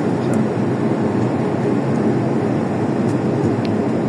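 Steady cabin noise of an airplane in flight: the even drone of the engines and rushing air, heard from inside the cabin.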